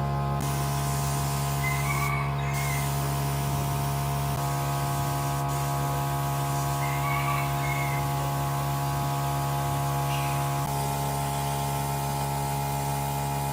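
A machine running with a steady hum of several fixed tones, its tone shifting slightly about four seconds in and again about ten seconds in.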